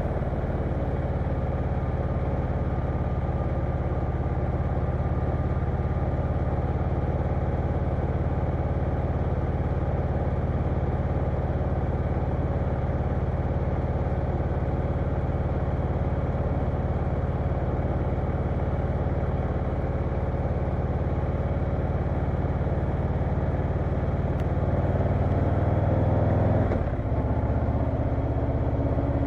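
Harley-Davidson Low Rider S V-twin engine running steadily while the motorcycle is ridden. Near the end its note climbs, then drops abruptly.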